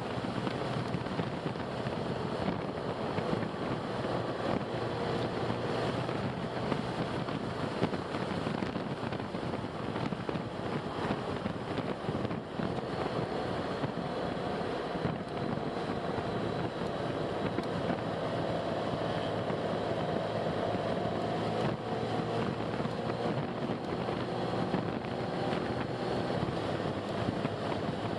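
Steady road noise and engine hum of a car driving, with a faint tone that drifts slightly in pitch.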